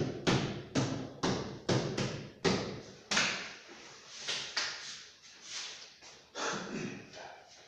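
Hammer blows, about two a second for the first three seconds, then a few softer, scattered knocks.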